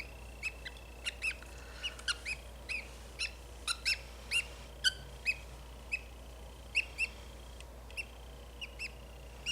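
Budgerigar chirping: an irregular string of short chirps, about two or three a second.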